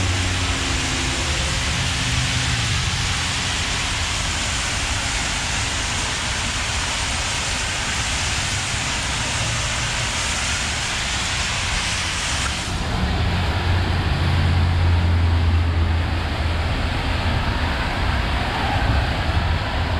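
Steady hiss of rain and wet road traffic, with the hiss turning duller about two-thirds of the way through; a vehicle's engine then rumbles close by for a few seconds.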